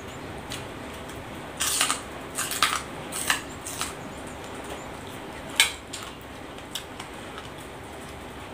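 Crunchy chewing of raw vegetables, a run of short crunches in the first four seconds, then a single sharp click about five and a half seconds in, over a steady background hiss.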